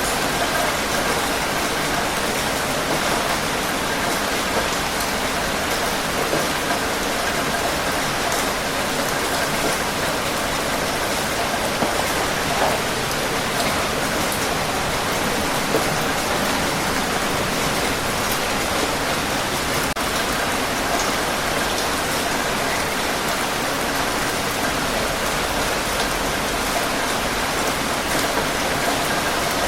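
Steady rain falling on a surface, an even hiss with scattered individual drops.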